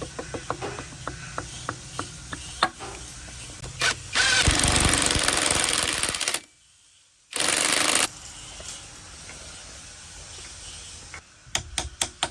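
Power tool running in two loud bursts, the first about two seconds long and the second under a second, with a near-silent gap between them. Scattered light metallic clicks and taps of hand tools come before and near the end.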